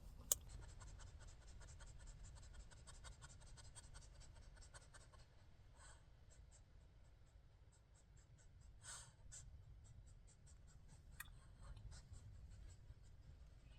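Near silence, with faint rapid scratchy ticking throughout and a soft rustle about nine seconds in.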